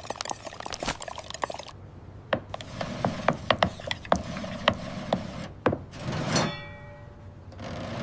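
Cartoon sound effects: a quick run of wooden and mechanical clicks and knocks, then a single ringing ding about six seconds in that fades away.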